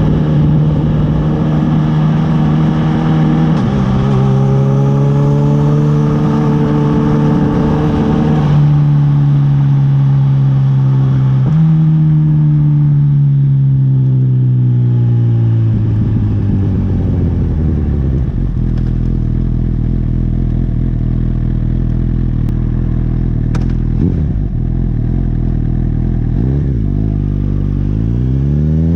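Honda CB1000R's inline-four engine while riding: the revs change in steps at gear changes, then fall steadily as the bike slows, hold low and steady, and rise again near the end.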